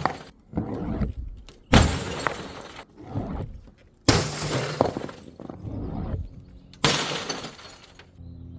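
Glass bottles shattering one after another: a smaller crash just after the start, then three loud smashes about 2 to 3 seconds apart, each followed by shards clattering and tinkling as they settle.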